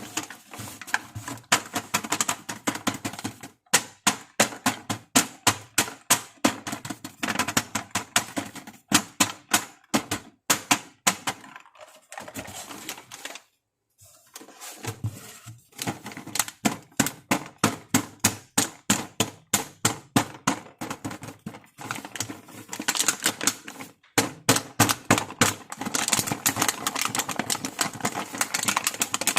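Rapid clicking and tapping of small plastic toy makeup pieces being handled, several taps a second, with a brief pause about halfway through.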